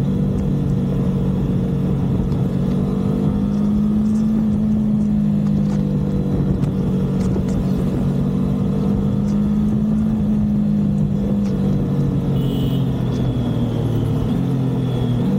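Triumph motorcycle engine running at a steady cruise on the road, its note rising and falling gently with the throttle, over wind and road noise. A brief high tone sounds near the end.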